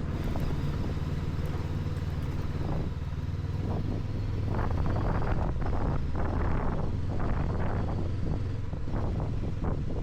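Honda NX500 parallel-twin engine running steadily under way, heard from the rider's helmet, with gusts of wind rushing over the microphone from about halfway.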